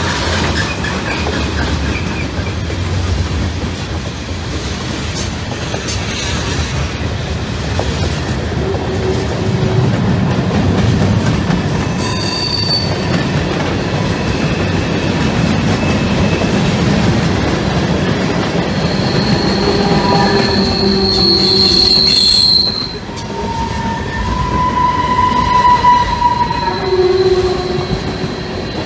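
Freight train cars, covered hoppers and tank cars, rolling past: a steady rumble and clatter of steel wheels on rail, with metallic squeals coming and going. The longest squeal is high-pitched and comes about two-thirds of the way through, and lower squeals follow near the end.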